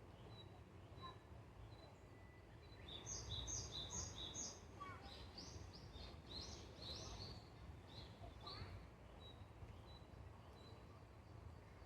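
Wild birds calling at dawn: a run of quick, high chirping notes from about three seconds in to about nine seconds, with a faint thin high note repeating before and after. Underneath is a low steady background rumble.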